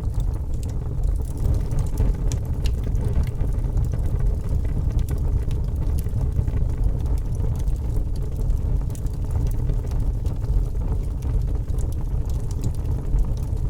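Wood fire burning in a fireplace: a steady low rumble of flames, with many small crackles and pops scattered throughout.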